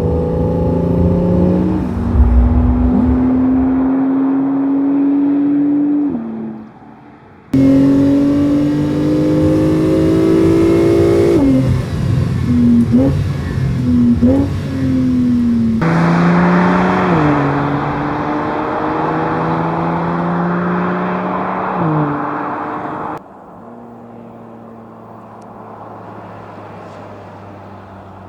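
Porsche 911 Targa 4 GTS twin-turbo flat-six exhaust, heard in several edited passes. It accelerates with a climbing pitch that drops sharply at each upshift, and gives a few quick throttle blips in the middle. Near the end it settles to a quieter, steady running note.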